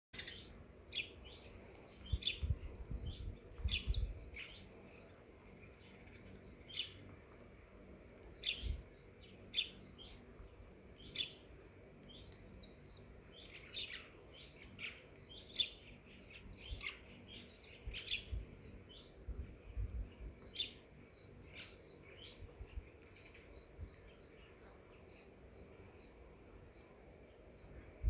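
Small birds chirping, many short high calls repeating all the way through. A few low rumbles come through at times.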